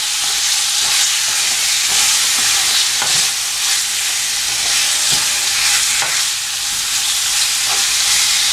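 Chicken pieces sizzling and frying in oil in a pan, with a steady hiss and a spatula stirring and scraping now and then, about once a second.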